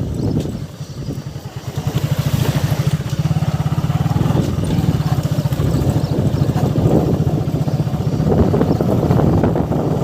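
Motorcycle engine running with a fast, even beat. It is quieter for the first couple of seconds, then louder from about two seconds in.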